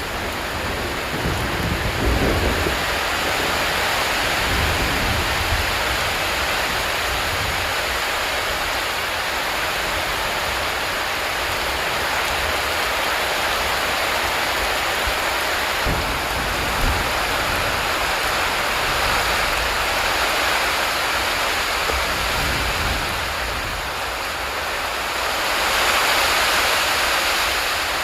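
Steady hiss of heavy rushing water, with a few low rumbles in the first seconds and again around the middle, and a swell in level near the end.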